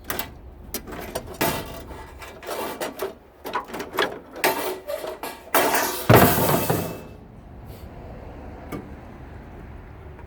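Sheet-metal lid of a tankless water heater being wrenched off and handled, with a rapid run of clanks, knocks and scraping rattles. The loudest, longest scrape comes about six seconds in, then it goes quiet.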